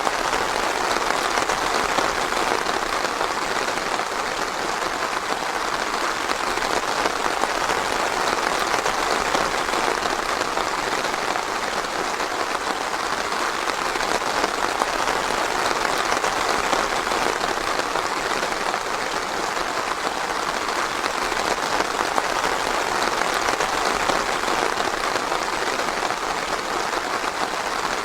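Steady rain falling, a dense, even patter of drops with no thunder or breaks.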